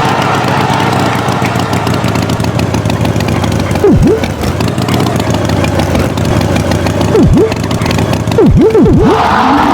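Engine running steadily, a farm tractor's engine sound, with quick swoops that dip sharply down in pitch and back up: once about four seconds in, again a few seconds later, and three in quick succession near the end.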